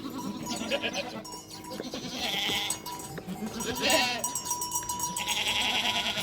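Goats in a flock bleating, about four separate quavering calls over a few seconds, with a faint steady ringing underneath.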